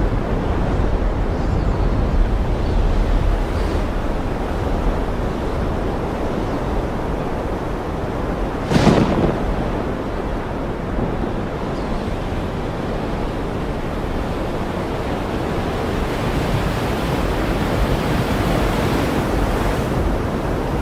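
Ocean surf rushing steadily, waves mixed with wind, with one short, sudden crash about nine seconds in and the surf swelling again near the end.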